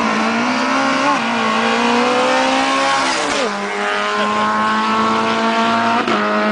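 Drag-race car engine at full throttle, accelerating hard down a 250 m strip: the pitch climbs through each gear and drops sharply at upshifts about a second in, around three seconds in and near the end.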